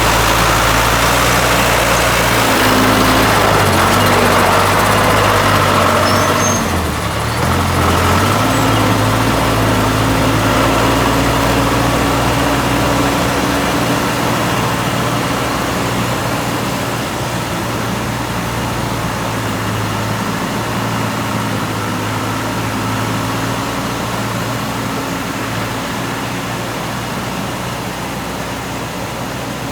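Small engine of a mini rice threshing machine running steadily. Its pitch dips and shifts briefly about seven seconds in, then it runs on and slowly gets quieter toward the end.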